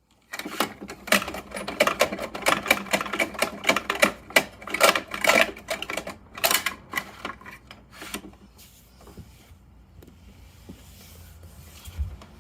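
Rapid plastic clicking and rattling from a toy Bruder Mack garbage truck being worked, dying away about two-thirds of the way through.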